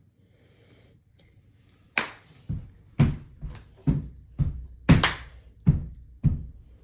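A run of about ten sharp knocks on a hard surface, roughly two a second, starting about two seconds in.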